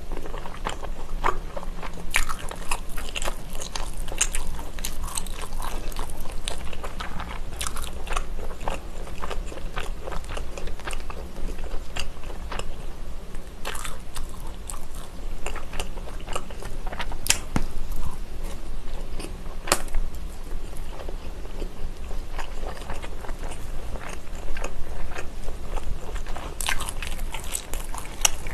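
Close-miked biting and chewing of a fried chicken skewer, with crunching and many sharp clicks throughout.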